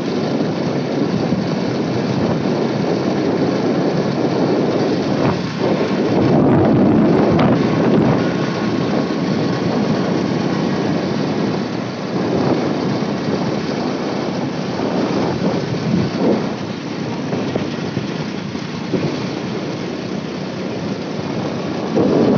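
Wind buffeting the microphone on a moving motorcycle: a steady, loud rumbling rush with the vehicle running underneath.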